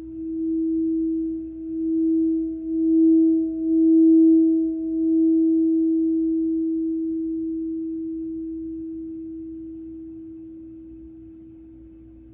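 A singing bowl tuned to the note E sounds one steady, pure tone. It swells and pulses for about the first five seconds, then rings out and fades slowly.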